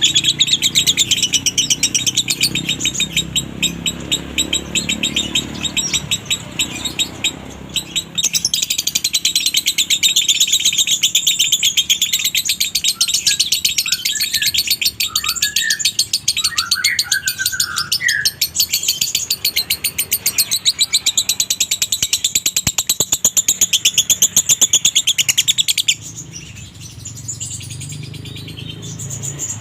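Lovebird singing its 'konslet' song with a dry tone: a long, very fast trill of short, high notes. It breaks off about 26 seconds in, leaving quieter chirping.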